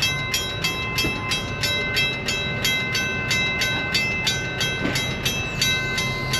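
Railroad crossing signal bell dinging steadily, about three strikes a second.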